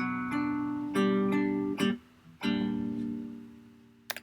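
Guitar strumming three chords. The second is stopped short and the last is left ringing and fading away. A sharp click comes near the end.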